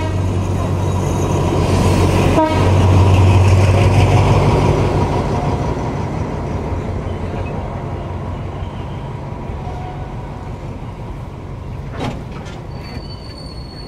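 State Railway of Thailand diesel locomotive passing at walking pace, its engine running loud and low for the first few seconds and then fading as the coaches roll by on the track, with a short horn toot about two and a half seconds in. Near the end a steady high-pitched wheel squeal starts as the train slows.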